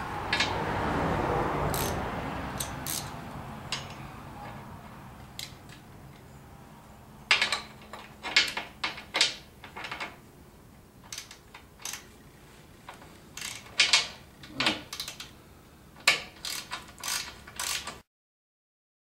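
Ratchet wrench clicking in short, irregular runs as bolts are tightened, with sharp metal clicks. It opens with a rushing noise that fades over a few seconds.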